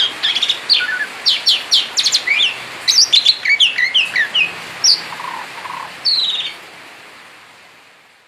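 A songbird singing a rapid, varied song of quick chirps and whistled notes. The song stops about two-thirds of the way through, and a faint hiss fades out to the end.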